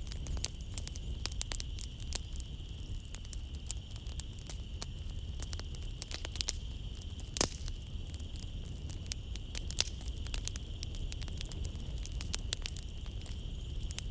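Wood fire crackling in a fireplace: irregular sharp pops and snaps, with one louder pop about halfway through, over a low steady rumble of the burning. Night insects chirring steadily in the background.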